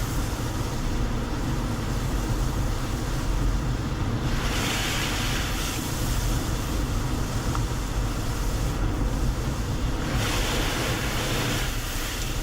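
Road noise of a moving car heard from inside: a steady low rumble with tyre hiss that swells twice, about four seconds in and again about ten seconds in.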